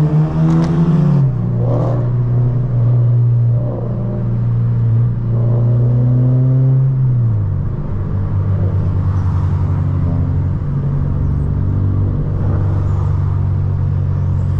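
Honda Civic Si four-cylinder engine with bolt-on exhaust droning loudly inside the cabin while driving. Its pitch drops about a second in and again about halfway through as the revs fall.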